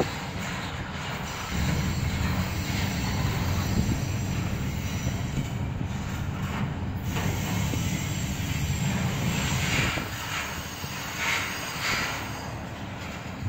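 Double-stack intermodal freight train's container-loaded well cars rolling past, a steady low rumble of steel wheels on rail that grows louder about a second and a half in, with faint clicks from the wheels.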